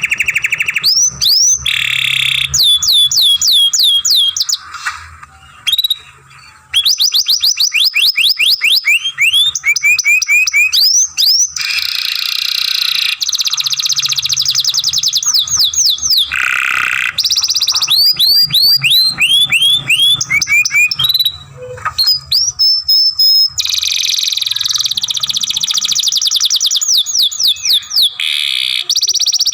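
Young canary singing a long, continuous song: fast runs of repeated rising whistled notes, many per second, alternating with dense buzzy rolls. There are short breaks about five seconds in and again about twenty seconds in.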